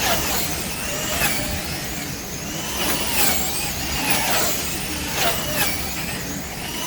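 Wing slot cars' electric motors whining as they race round the track, several high whines rising and falling again and again as the cars speed down straights and slow for turns.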